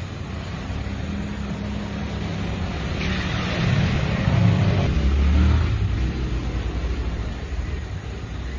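A motor vehicle engine running with a steady low hum. It grows louder for a couple of seconds about midway, then eases back.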